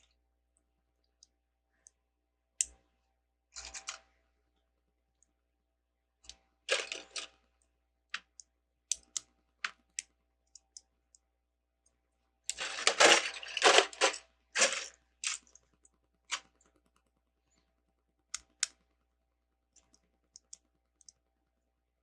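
Plastic LEGO bricks clicking and clattering: scattered single clicks and a few short flurries of rattling as pieces are handled and pressed together, the longest flurry a little past halfway.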